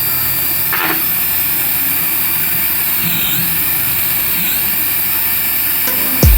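Steady jet-engine noise with slow sweeping whooshes, like a toy Airbus A380's engine sound effect. A deep bass-drum hit from music comes in right at the end.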